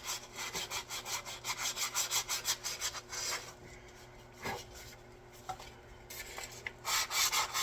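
Quick back-and-forth strokes of a hand rasp on a wooden axe handle, shaping it to fit. The strokes pause for about three seconds midway and start again near the end.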